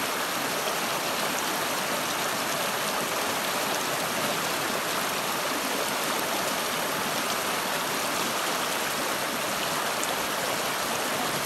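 River water flowing, a steady rush of water.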